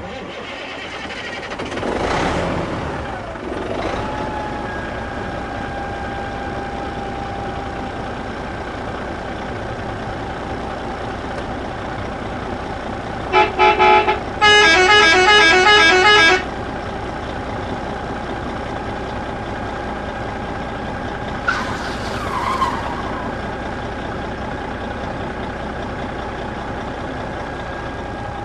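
Vehicle engine running with a steady drone. About two-thirds of the way through, a horn gives a few short toots and then a longer run of rapid beeps. A short falling squeal follows later.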